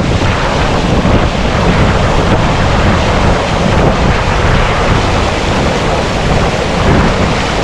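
Strong wind buffeting the microphone: a loud, unbroken rushing roar with heavy low rumble.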